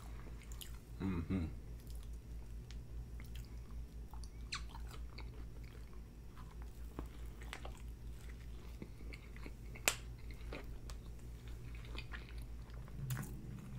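Close-miked biting and chewing of a McDonald's Big Mac with fries tucked inside: soft wet mouth sounds and scattered small clicks, with one sharp click about ten seconds in.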